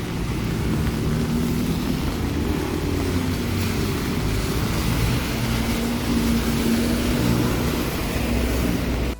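Steady city street traffic noise, the low running of vehicle engines with a slight drift in pitch.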